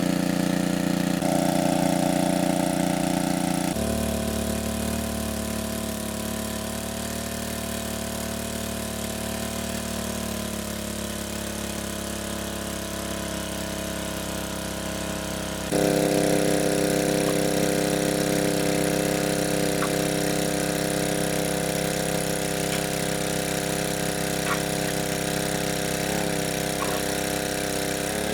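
A small engine running steadily with a droning hum. Its pitch and loudness change abruptly twice.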